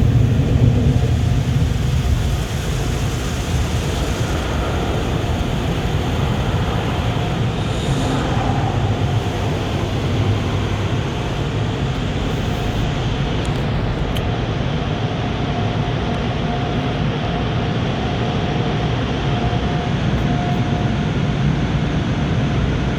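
Automatic car wash machinery and water spray heard from inside the car's cabin: a steady, loud rumbling wash, with the high hiss thinning out about halfway through.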